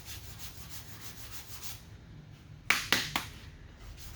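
Hand sanding of lacquer primer on a car body panel with a sanding block: quick back-and-forth strokes, a test sanding to check whether the primer has dried. About three seconds in come three sharp knocks, louder than the sanding, before the strokes resume faintly.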